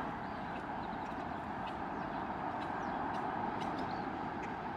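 Steady background hiss centred in the middle range, with a few faint ticks scattered through it.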